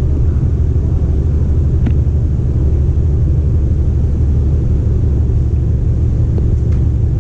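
MTR East Rail line R-Train electric multiple unit running, heard on board: a steady low rumble of wheels and running gear on the track, with a few faint clicks about two seconds in and near the end.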